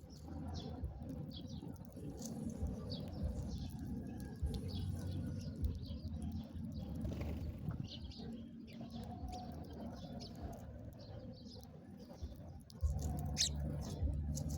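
Small songbirds chirping, with short scattered chirps over a steady low hum that gets louder near the end.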